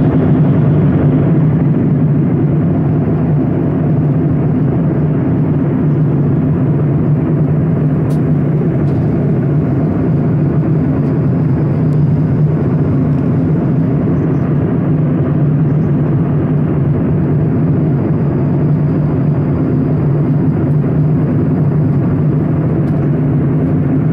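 Steady drone of a moving vehicle heard from inside the cabin: a loud, even low hum with rumble beneath it that does not change.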